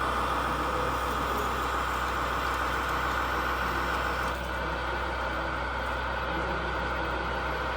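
Radio-controlled model construction trucks running with a steady engine-like hum and whine, easing slightly about four seconds in.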